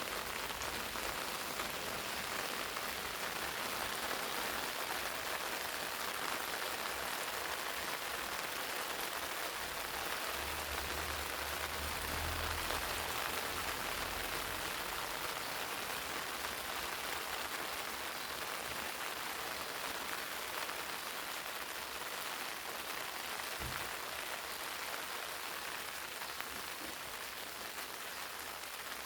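Steady rain pattering on eggplant leaves in a garden, with a low rumble for a few seconds near the middle.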